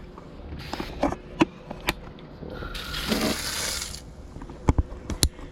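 Garden hose spray nozzle's pattern dial being turned, clicking through its settings a few times, with a short burst of water spray in the middle.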